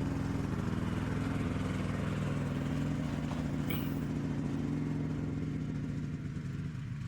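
Snowmobile engine running steadily while riding.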